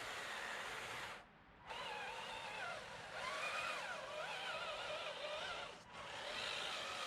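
Radio-controlled 6x6 truck's motor and gearbox whining, its pitch rising and falling with the throttle, cutting out briefly twice.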